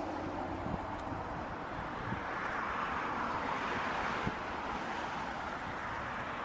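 Jet airliner engine noise, a broad rushing sound that swells to a peak about three to four seconds in and then slowly eases.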